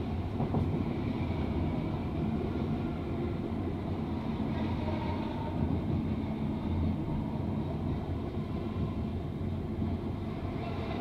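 Passenger train running along the track, heard from inside the carriage: a steady low rumble and rolling noise of wheels on rails.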